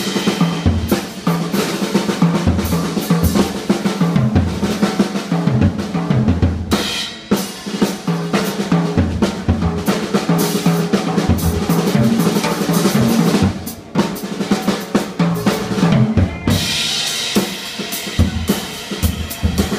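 Funk band with the drum kit to the fore, playing busy snare, bass drum and rimshot fills over a repeating low bass line from the Hammond organ.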